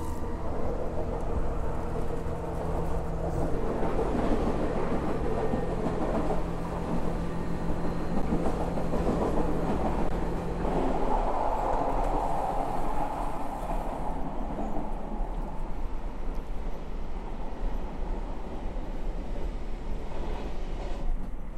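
Running noise of the Super Hakuto's HOT7000-series diesel railcar, heard from inside the train as it travels. A steady low hum drops away about eleven seconds in.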